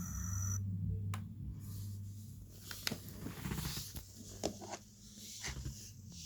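Sharp plastic clicks and scraping as a laptop keyboard is pried up out of its frame with a screwdriver, over a steady low hum. A high thin whine cuts off about half a second in.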